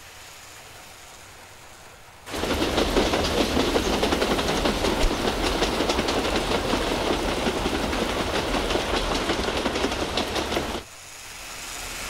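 Train wheels clattering over the rails in a fast, dense clickety-clack that starts abruptly about two seconds in and cuts off sharply near the end. It is followed by a softer clatter that builds again.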